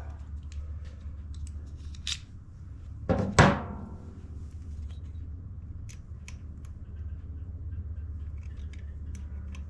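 Hand tools clicking against small-engine metal parts, with one loud metallic clank about three seconds in, over a steady low hum.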